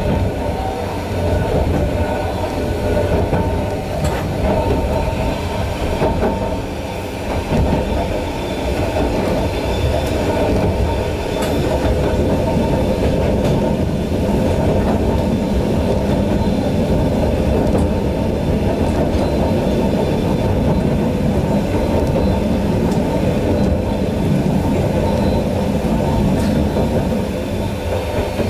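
Running noise of a Yokkaichi Asunarou Railway 260 series narrow-gauge (762 mm) electric train, heard from inside the driver's cab: a steady rumble of wheels on rail with a few faint clicks from the track.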